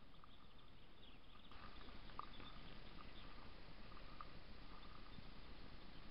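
Faint outdoor garden ambience with scattered short, high chirps of small birds, the clearest about two seconds in.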